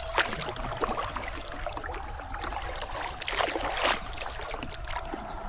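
Kayak paddle dipping and splashing in flowing river water, with water trickling off the blade; the splashing is busiest about three and a half seconds in.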